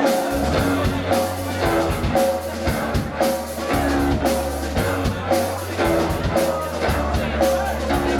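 Live rock band playing a passage without vocals: a steady bass line under a repeating riff of pitched notes, with drums.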